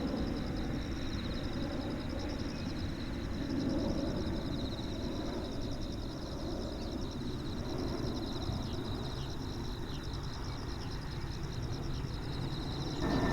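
Insects trilling in fast steady pulses, high-pitched, over a low distant rumble, with a few faint ticks in the middle.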